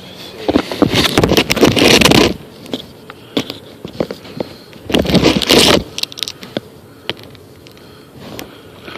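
Close rustling and scraping with clicks, in two bursts: a long one near the start and a shorter one about five seconds in, from handling things right at the microphone.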